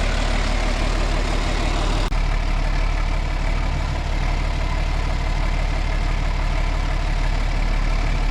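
Vehicle engine idling steadily, with an abrupt change in the sound about two seconds in.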